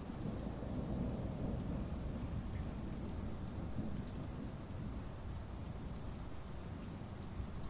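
Thunderstorm: steady rain with a low, continuous rumble of thunder and a few scattered drops ticking in the middle.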